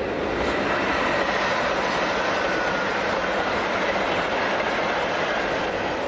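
Diesel express train passing close by at speed: a loud, steady rush of engines and wheels on the rails that builds during the first second and holds as the cars go by.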